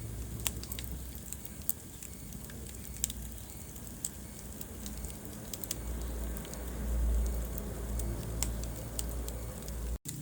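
Wood fire burning in a fireplace: a steady low rumble of flames with scattered sharp crackles and pops. The sound cuts out for an instant near the end.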